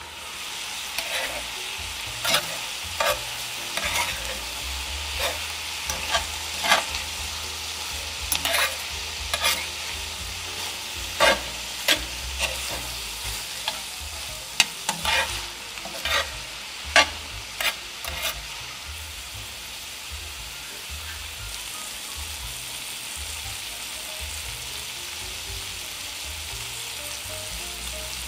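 Chopped meat and peppers frying in a pan with a steady sizzle, stirred with a utensil that knocks and scrapes sharply against the pan many times over roughly the first two-thirds, then left to sizzle evenly.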